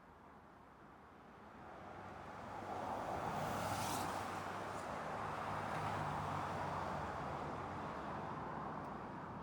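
Toyota Land Cruiser VX-R twin-turbo engine running, growing louder over a couple of seconds to a steady hum, with a short burst of hiss about four seconds in, then slowly easing off.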